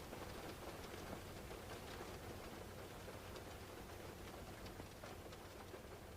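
Rain pattering, many small drops ticking irregularly, over a steady low rumble, slowly growing fainter.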